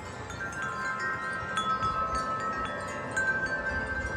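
Wind chimes ringing in a gust of wind, tubes struck again and again and their tones ringing on and overlapping. Some low wind rumble on the microphone comes in near the end.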